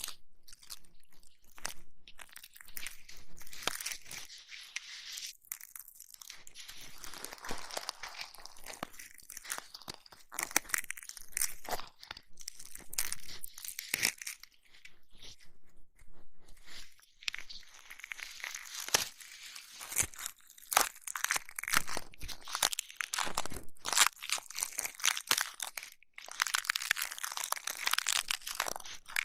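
Close-miked ASMR crackling and rubbing: dense, irregular crisp clicks and scratchy crinkles, with short pauses between flurries.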